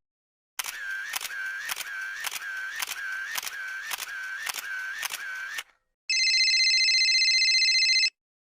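A series of about ten sharp mechanical clicks, roughly two a second, then after a short pause a steady electronic ringing tone with a fast flutter that lasts about two seconds and cuts off suddenly.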